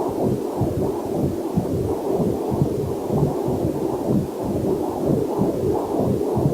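Fetal Doppler heart monitor giving a muffled, whooshing pulse of heartbeat and blood flow, rapid beats low in pitch, with a faint waterfall hiss mixed in beneath.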